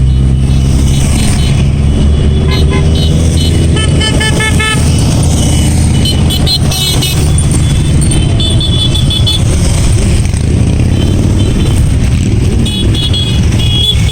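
Motorcycles riding past in a procession, their engines running loudly and steadily, with horns beeping in short repeated bursts several times.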